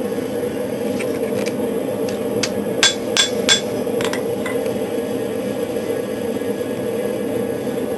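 Light hammer taps on a steel knife blade during final straightening: a few faint taps, then three sharp ringing strikes close together about three seconds in. Under them runs the steady rushing noise of the small forced-air forge.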